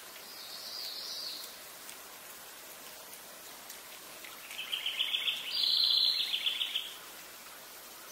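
A songbird singing one rapid trill of even notes, about two and a half seconds long, starting about four seconds in and stepping up higher partway through, over a faint steady outdoor hiss.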